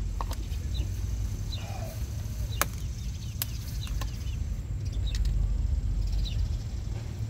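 Small birds chirping over and over above a steady low rumble, with two sharp clicks about two and a half and three and a half seconds in.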